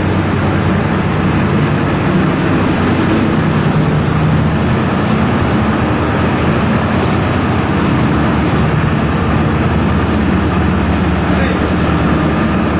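Canal boat's diesel engine running steadily under way inside a long canal tunnel, a loud even drone with a low engine hum.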